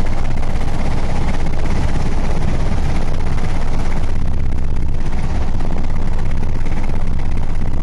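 Fire engine's engine running loudly and steadily, with a fast, even low pulsing.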